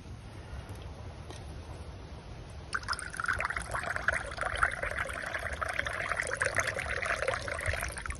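Water being poured into a container, a steady pour that starts about three seconds in and stops abruptly near the end.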